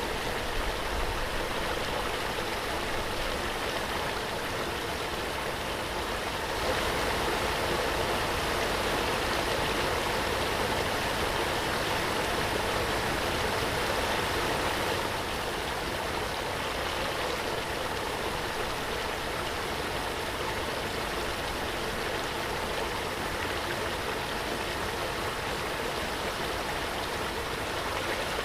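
Waterfall: a steady, even rush of falling water, a little louder for a stretch a quarter of the way in.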